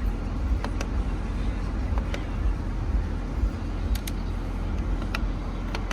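Mercedes E63 AMG's naturally aspirated 6.2-litre V8 idling with a steady, deep exhaust rumble, with a few sharp clicks scattered through it.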